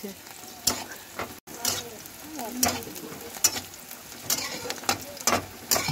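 Sliced onions and green chillies sizzling in hot oil in a karahi, with a metal spatula scraping and knocking against the pan again and again as they are stirred.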